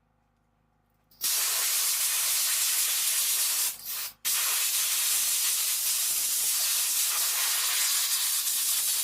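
Compressed-air jet blowing over alternator parts in a loud, steady hiss that starts about a second in, cuts out briefly about three seconds later, then carries on.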